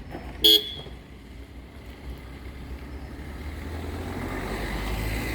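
A motor vehicle approaching, its low rumble growing louder over the last couple of seconds. About half a second in there is one short, loud, high beep.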